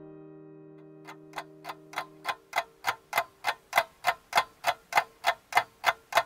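Steady ticking, about three ticks a second, fading in about a second in and growing louder, then even. Held notes of closing piano music linger underneath and stop a little past two seconds in.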